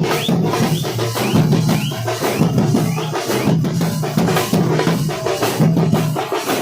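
Nasik dhol troupe drumming: a fast, dense rhythm of many drum strokes with a repeating low pattern underneath.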